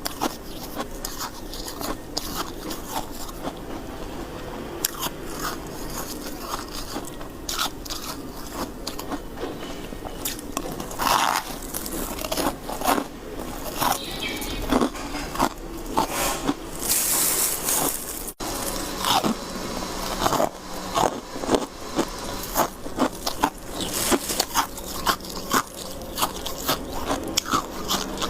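A person biting and chewing white ice close to the microphone: a dense run of crisp, irregular crunches, with a brief break about two-thirds of the way through before the crunching picks up again.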